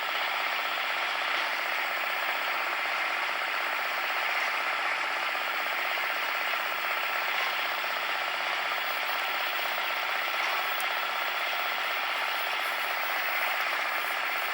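Cement mixer running steadily, its turning drum and gears making a fast, even clatter.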